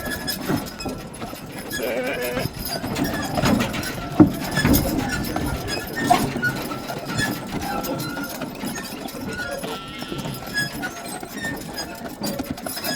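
Farm animals bleating, with scattered knocks.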